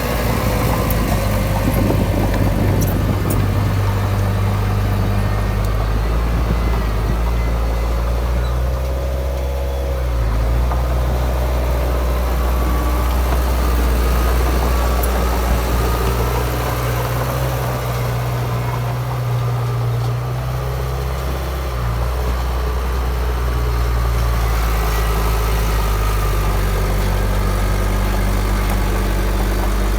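Heavy diesel engine of earthmoving machinery running steadily, its low note shifting in pitch a few times.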